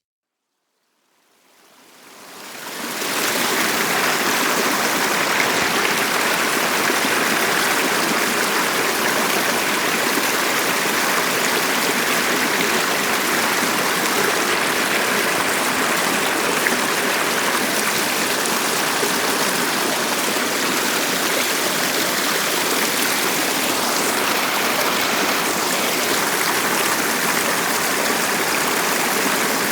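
A stream flowing with a steady rushing sound, fading in from silence over the first three seconds.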